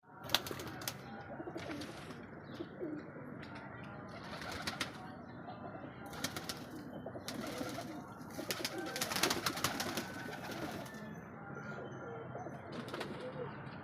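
Domestic pigeons cooing in a loft, with scattered sharp clicks and rustles and a few faint high chirps after about 11 seconds.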